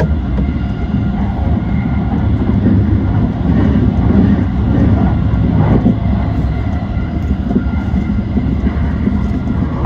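An E235-1000 series electric train running along the track: a steady rumble of wheels on rail, with a few separate knocks.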